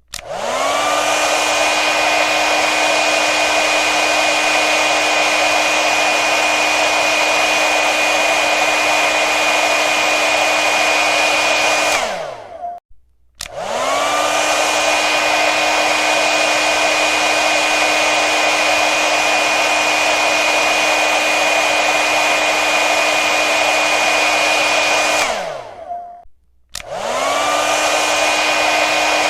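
Hair dryer blowing with a steady rushing sound and a motor whine. It starts up with a rising whine right at the start, and twice it is switched off, the whine falling away into about a second of silence, then switched back on and spinning up again.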